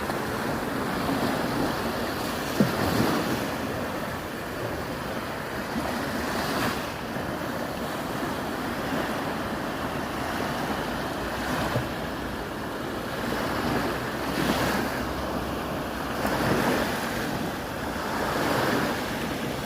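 Sea waves breaking on a beach, the surf swelling and washing in every few seconds, with wind buffeting the microphone.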